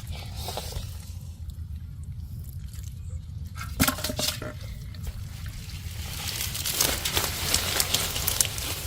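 Hands splashing and sloshing through shallow water: a short cluster of splashes about four seconds in, then a longer stretch of busier churning and dripping near the end.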